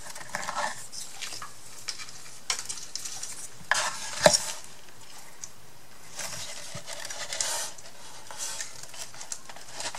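Rustling and small clicks of craft materials, twine and paper pieces, being handled on a tabletop, with one sharper click about four seconds in.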